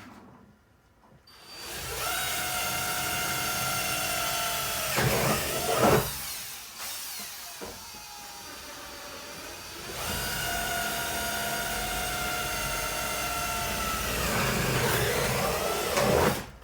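Electric drill boring two holes through a refrigerator wall, two runs of several seconds each with a steady motor whine and a pause between. Each run gets rougher and louder near its end as the bit works through.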